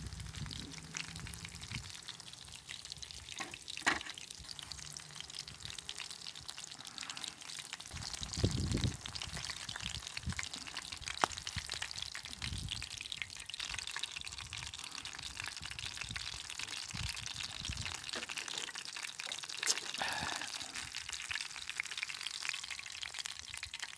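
Battered shrimp and squid rings deep-frying in hot oil, with a steady crackling sizzle and a few sharp clicks.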